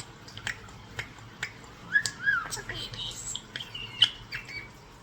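Pet European starling singing: a run of sharp clicks about twice a second, then whistled glides and squawky chatter, with a loud click about four seconds in.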